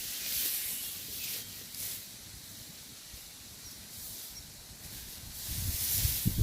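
Rustling and brushing through field grass and vegetation, coming in soft patches of hiss, with low rumbling thumps building near the end.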